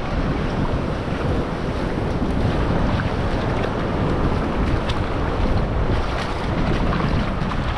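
Wind buffeting the microphone, with the steady wash of ocean surf behind it.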